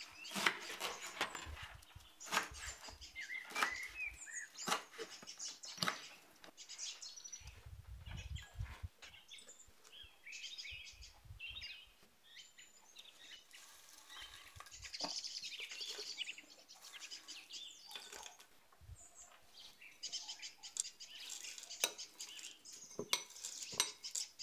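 Faint, scattered light clicks and taps of kitchen utensils and ingredients being handled as food is added to the blender cup; the blender motor is not running.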